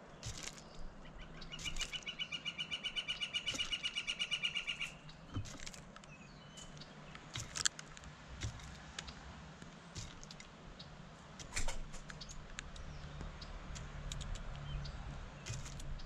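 A songbird's rapid trill of repeated notes, about seven a second, lasting some three seconds from about a second and a half in. Scattered sharp clicks and taps around it, the loudest near the middle, from a blue jay pecking at sunflower seeds on a wooden feeder.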